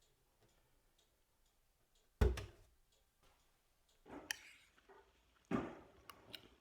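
Faint ticking, then three heavy thumps a second or two apart, with a couple of sharp clicks near the end.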